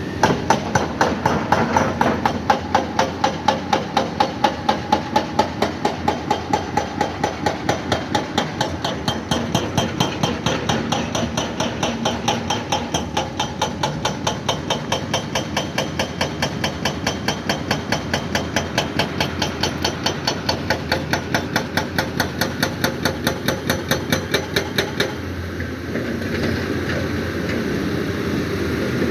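Excavator working, with rapid, evenly spaced metallic clanks over its running diesel engine. The clanking stops near the end, leaving the engine running.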